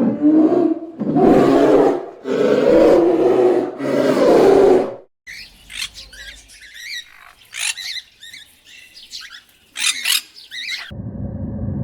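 A big cat roaring four times, each roar about a second long. It cuts off abruptly to birds chirping in quick, sweeping calls. Near the end a steady low hum begins.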